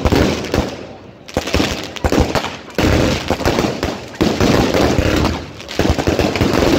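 Fireworks going off in quick succession: rapid, sharp bangs and crackling that come in dense clusters with short lulls between them, loud and close.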